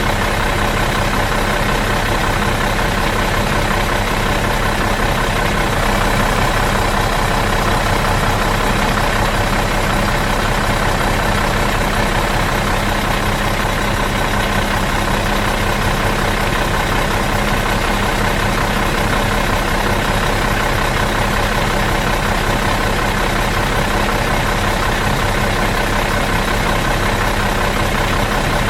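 Bus diesel engine idling in neutral, running steadily and evenly with no change in speed.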